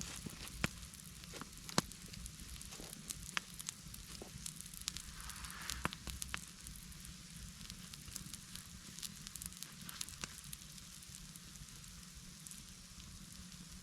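Campfire crackling steadily, with scattered sharp pops, the loudest about a second and two seconds in.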